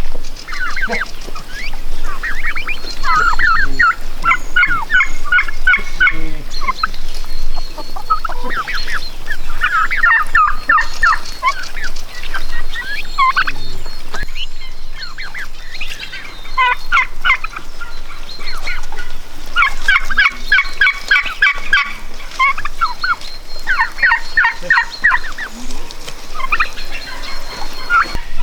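Domestic turkeys gobbling over and over, a quick rattling gobble about every three seconds.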